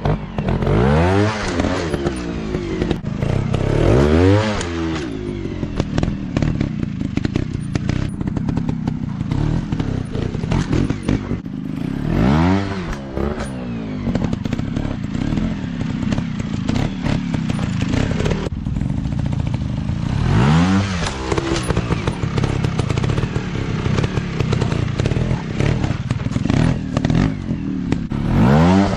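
Dirt bike engines running and revving hard in repeated bursts, the pitch sweeping sharply up and back down about five times, with clattering knocks in between.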